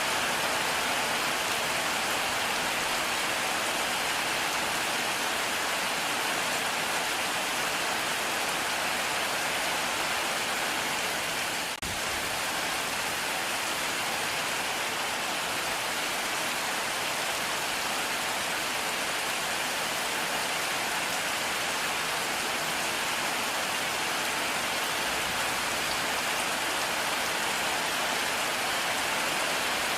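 Heavy rain falling steadily: a dense, even hiss of rain with a brief dropout about twelve seconds in.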